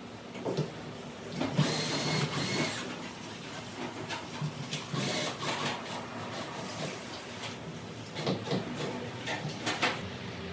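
Delivery packaging being unpacked by hand. About a second and a half in there is a long tearing screech, like tape being ripped off cardboard, followed by more rustling and scattered clicks and knocks.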